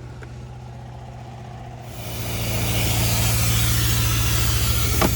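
Carpet-cleaning extraction machine running with a steady low hum, then about two seconds in a loud rushing hiss of vacuum suction through the upholstery tool.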